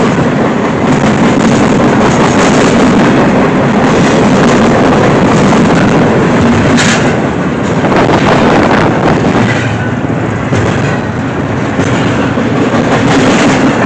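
Norfolk Southern freight train's cars rolling past close by: a loud, steady rush and rumble of steel wheels on the rails.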